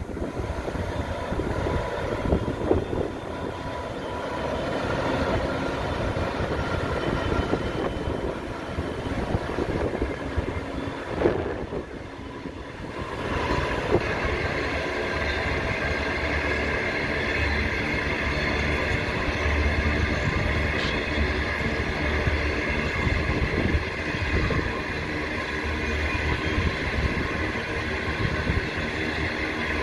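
Heavy cement freight train passing, hauled by two 82 Class and a 48 Class diesel-electric locomotives: a steady low diesel engine drone. This gives way to the rumble and clatter of loaded cement tank wagons rolling over the rails, with a brief drop in level about twelve seconds in.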